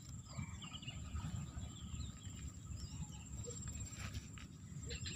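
Outdoor marsh ambience: small birds chirping now and then over a steady high-pitched whine and a low rumble.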